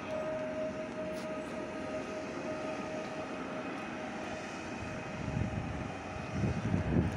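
PKP Intercity Pendolino electric train moving along a station track, a steady rumble with a held mid-pitched tone that fades after about three seconds. Low gusts of wind on the microphone come in near the end.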